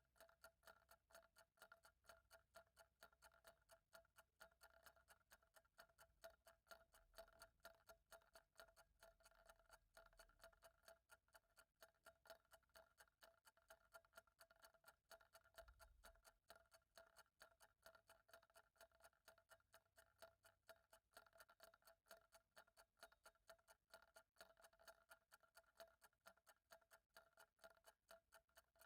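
Faint, even ticking of a clock, with a slight ring to each tick.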